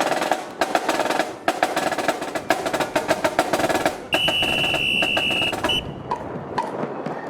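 Marching band percussion playing a fast drum cadence of snare hits and rolls. About four seconds in, a steady high tone is held for about a second and a half. Strong wind buffets the microphone throughout.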